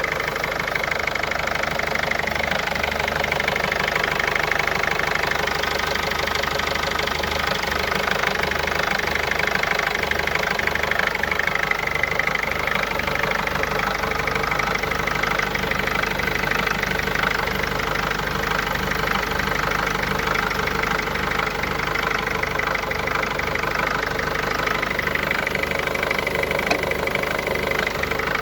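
Mercedes engine running steadily at an even speed, with no revving.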